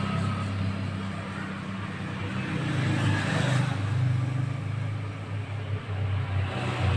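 A motor vehicle's engine running with a steady low rumble, swelling louder about three seconds in.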